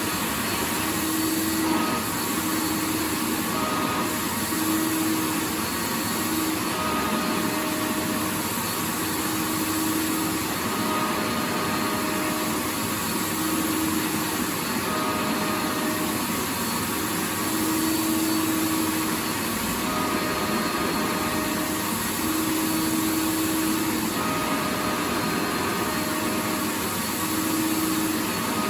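Vacuum cleaner motor running steadily with an even rushing hiss. A faint whine rises and falls away every few seconds.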